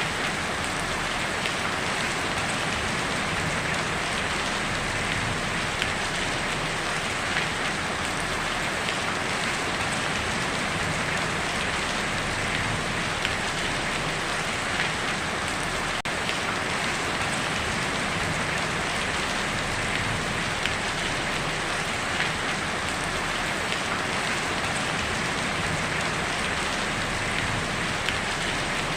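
Heavy rain falling steadily on a tin roof, a dense patter of countless individual drop ticks on the metal.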